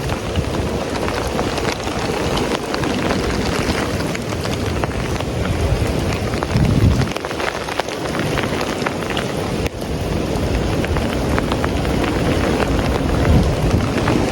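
Heavy wind-driven rain pouring down, with wind rumbling on the phone's microphone and drops ticking close by. A stronger gust swells about seven seconds in.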